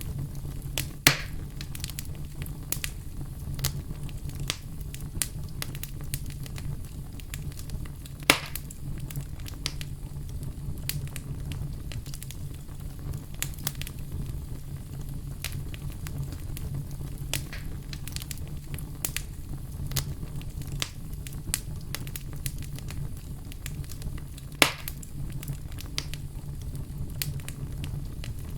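Wood fire crackling, with a steady low rumble under constant small snaps and three much louder pops spread through it.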